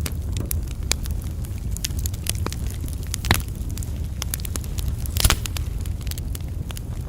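Campfire logs burning with a steady low rumble and frequent sharp crackles, with two louder pops, about a third of the way in and again about three quarters of the way in.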